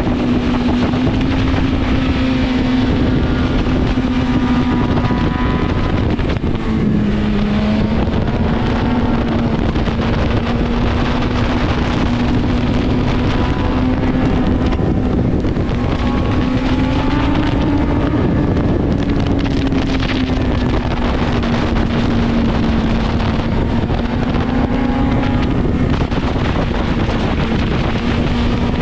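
BMW S1000RR's inline-four engine running at steady riding revs, its pitch drifting gently up and down with the throttle, under heavy wind noise on the microphone.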